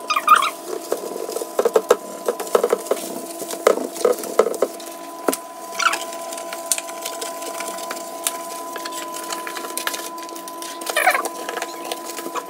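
Scattered knocks, clicks and rubbing as a refrigerator's inside is scrubbed with a sponge and things inside it are handled, over a steady hum of several held pitches.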